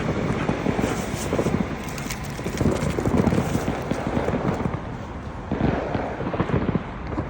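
Fireworks crackling and popping, a dense run of sharp cracks over a steady rumble.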